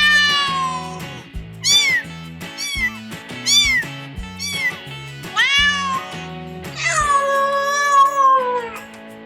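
A cat meowing repeatedly: about six short, rising-and-falling meows followed by one long, drawn-out meow near the end. Background music with a steady beat plays underneath.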